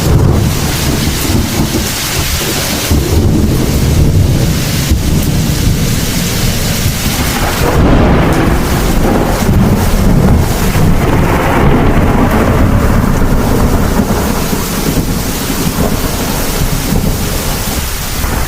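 Thunderstorm: heavy rain falling with rolling thunder. About eight seconds in, a long low rumble of thunder swells and rolls on through the rest.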